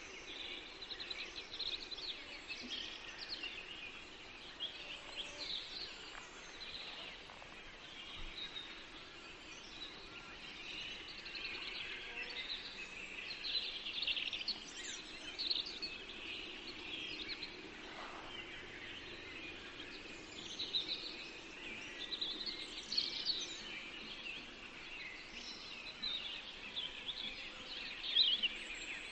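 Several forest birds singing at once, a dense chorus of short high chirps and trills overlapping without pause, over a faint steady background hush.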